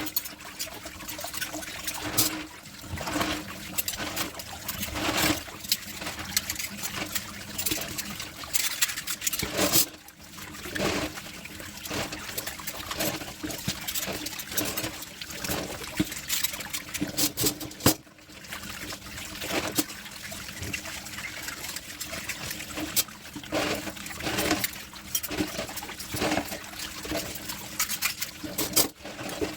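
Tap water running and splashing at a kitchen sink while dishes are washed, with frequent short clinks and knocks of dishes being handled and scrubbed.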